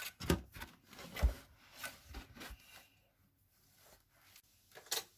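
Hands handling the washing machine's drain hose and plastic service panel: a few rubs and knocks, one heavier bump, then a single sharp click near the end.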